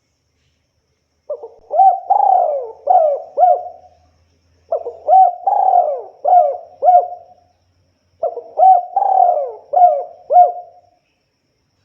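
Spotted dove (tekukur) cooing in three repeated phrases about a second apart, each a run of four or five rising-and-falling coos, starting about a second in.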